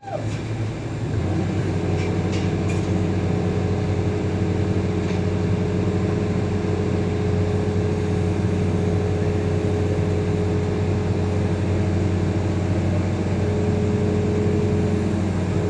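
Heavy diesel engine running steadily at an even speed, with a constant low drone.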